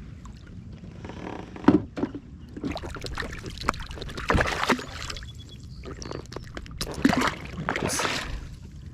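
Irregular knocks, clatters and rustles of handling fishing gear and a freshly caught catfish aboard a plastic fishing kayak, with a little water sloshing.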